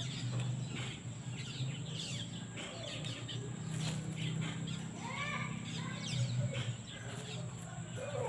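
Birds chirping and calling outdoors: many short high chirps, with a few lower arching calls about five to six seconds in. A steady low hum runs underneath.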